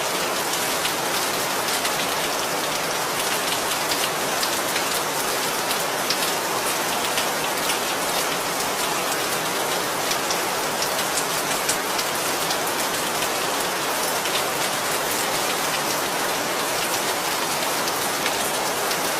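Steady rainfall, a dense hiss of drops with many small sharp patters of drops striking a surface.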